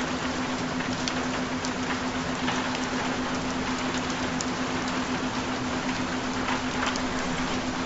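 Steady rain falling, with scattered single drop ticks, over a constant low tone from the track's binaural-beat layer.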